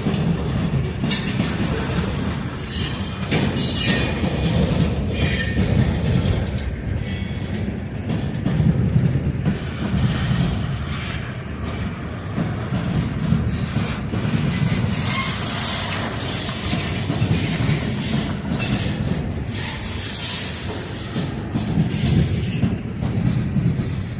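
Railroad cars rolling past during switching, their steel wheels clanking over rail joints and switch points with a steady low rumble. A few brief, high wheel squeals come through about two-thirds of the way in and again near the end.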